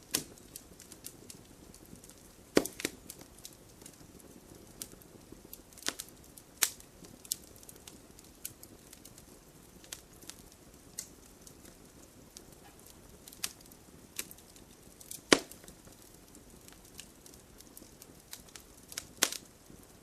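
Fireplace fire crackling: irregular sharp pops and snaps over a soft steady hiss, with the loudest snaps a few seconds in, about three-quarters through and near the end.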